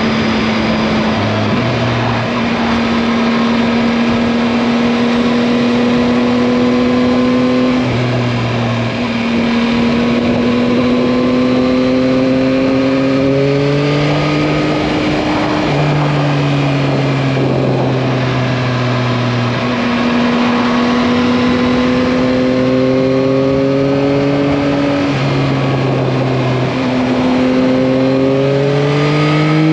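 Yamaha MT-09's three-cylinder engine running under light throttle on the move, its pitch climbing slowly and dropping back several times as the speed and revs change, over wind and road noise.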